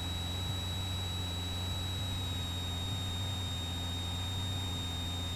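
Cessna 172's piston engine and propeller droning steadily in cruise-power slow flight, with a thin steady high-pitched whine over the drone that dips slightly in pitch about two seconds in.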